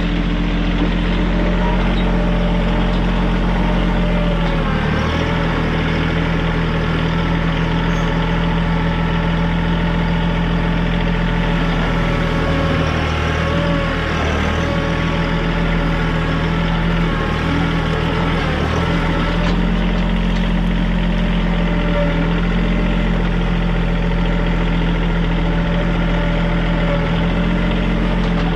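TYM compact tractor's diesel engine running at working revs, its note dipping and wavering through the middle stretch before settling back to a steady pitch.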